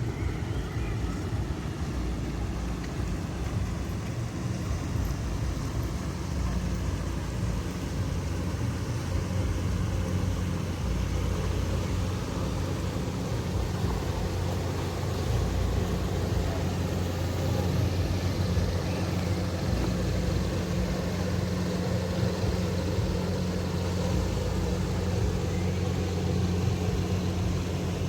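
A steady low engine hum over outdoor background noise, growing slightly louder in the second half.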